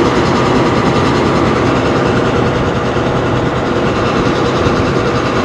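Combine harvester running steadily while cutting rice, heard from inside the cab: an even mechanical drone with a faint steady hum.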